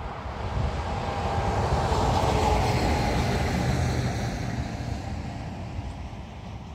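A locomotive-hauled train passing by on the line, its rumble building to a peak about two and a half seconds in and then fading away, with a faint hum.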